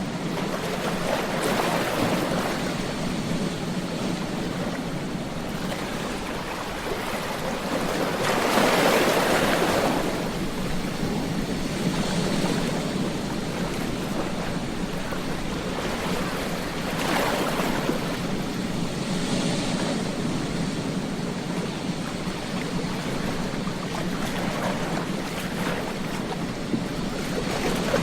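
Ocean surf breaking on a beach: a steady wash of waves that swells several times, loudest about nine seconds in.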